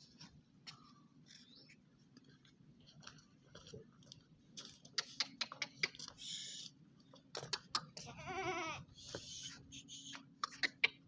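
An animal's short wavering cry, under a second long, about eight seconds in, among scattered clicks and rustling hiss.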